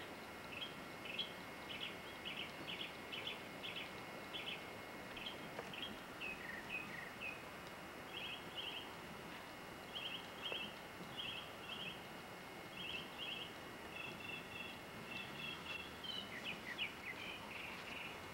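Small birds chirping: short, high notes in quick pairs and triplets, repeated every second or so over a faint steady hiss.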